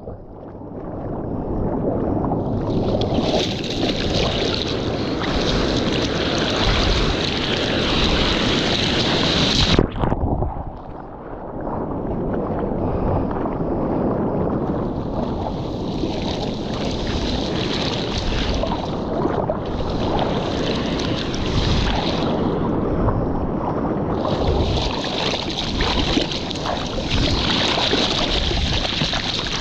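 Sea water sloshing and splashing close to the microphone with wind buffeting it, swelling and easing in long surges; there is a sudden break about ten seconds in.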